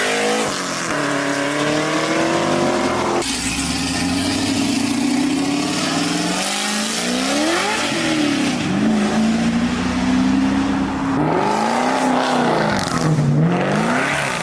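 A car engine revved hard several times, its pitch climbing and dropping repeatedly as the car accelerates. The sound changes abruptly about three seconds in.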